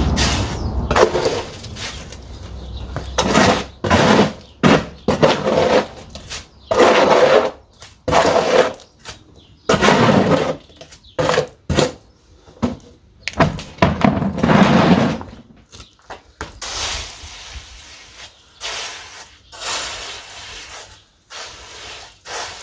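Renovation work: an irregular run of crunching knocks and scrapes, like masonry or rubble being broken and moved, one after another every half second to second or so.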